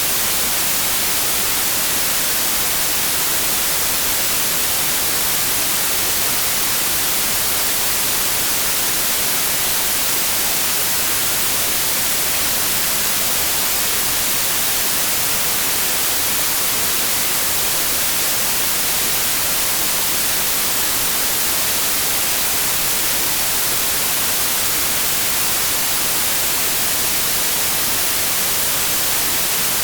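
Steady, unbroken white noise: an even hiss, brightest in the treble, with no changes in level.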